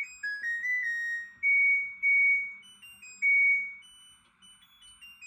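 LG washing machine playing its electronic end-of-cycle melody: a string of pure beeping notes stepping up and down in pitch, signalling that the diagnostic test cycle has finished. The last notes near the end are softer and higher.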